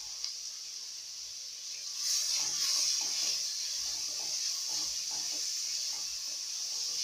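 Sliced onions and coriander stems sizzling in oil in a metal pot. About two seconds in, a wooden spoon starts stirring: the sizzle grows louder and the spoon scrapes the pot in repeated strokes.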